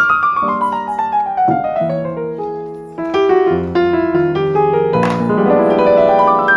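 Background piano music: a descending run of notes, then a new phrase about three seconds in, and rising runs near the end.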